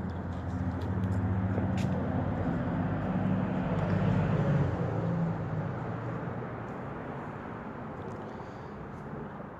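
A motor vehicle passes by, its engine hum swelling to a peak about four to five seconds in and then fading away, over a steady rush of wind noise.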